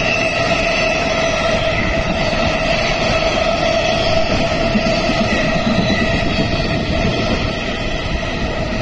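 Freight train's empty container flat wagons rolling past at speed: a loud, steady rush of wheel and rail noise with a ringing tone running over it.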